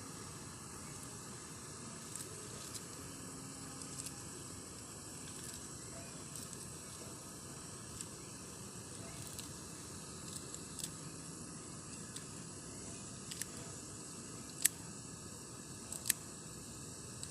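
Steady outdoor hiss with a faint, high, even whine like distant insects, and scattered soft clicks or ticks at irregular intervals; two louder ticks come near the end.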